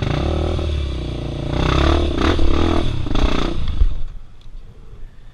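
Dirt bike engine running and revving in several short bursts, with clattering, then falling quiet suddenly about four seconds in, just after a sharp knock.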